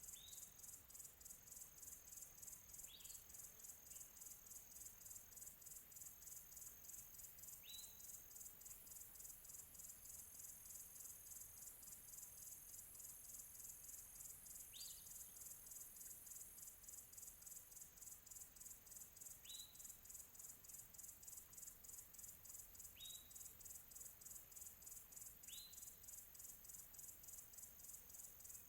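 Faint outdoor ambience: a bird gives single short, quickly rising chirps about eight times, a few seconds apart. Under the chirps runs a steady, high, rapidly pulsing insect chorus like crickets.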